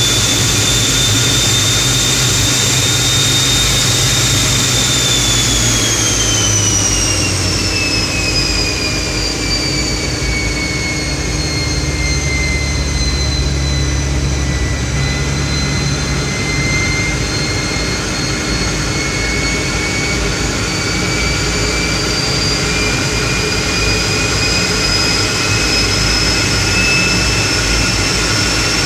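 T-33 jet trainer's turbojet engine running on the ground, heard from the rear cockpit: its high whine drops in pitch several seconds in, holds low, then slowly climbs again as the engine is throttled back and eased back up.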